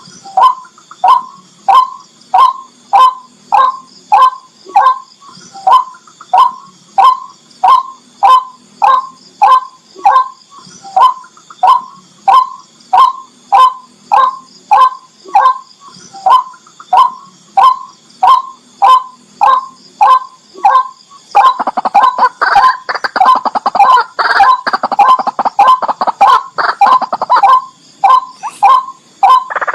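Tikling rail calling: loud, harsh single notes repeated at an even pace of about one and a half a second. Past the two-thirds mark they break into a fast, dense chattering series.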